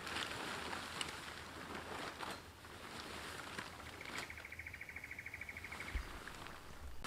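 Rustling and light knocks of camp gear being handled, with a rapid, even high trill from a bird or insect in the bush for about two seconds past the middle.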